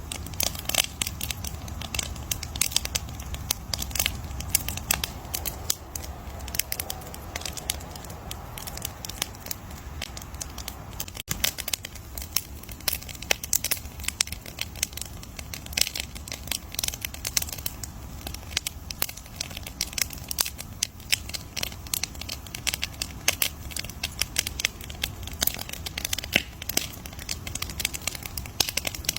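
Campfire burning with dense, irregular crackling and popping over a low steady rumble of the flames.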